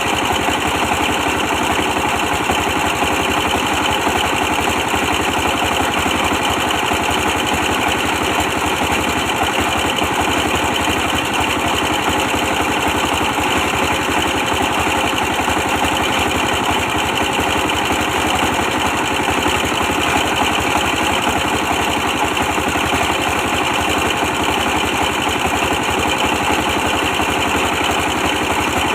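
A 24 hp stationary diesel engine running steadily with an even chug.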